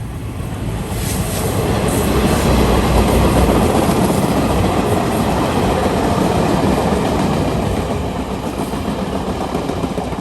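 A train passing close by: its rolling rail noise swells over the first few seconds, holds, then slowly fades as it moves away.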